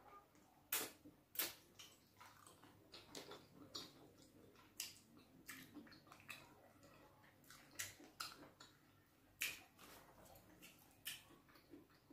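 Close-miked mouth sounds of eating fufu and bitter leaf soup by hand: chewing, lip smacks and finger licking, heard as an irregular string of short sharp clicks, about two a second.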